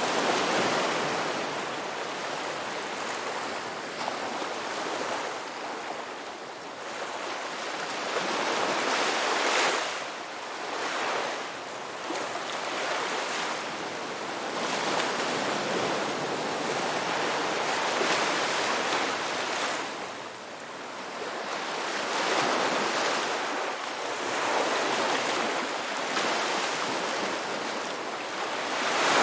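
Sea waves breaking and washing on a shore, a steady hiss of surf that swells and falls back every few seconds.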